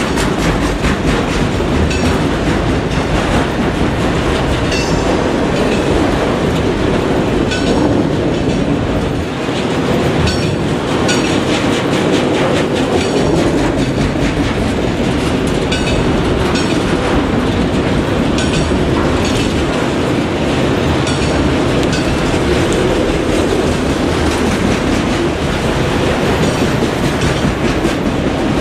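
Train cars rolling past, their wheels clicking and clacking over the rail joints in a steady, continuous run.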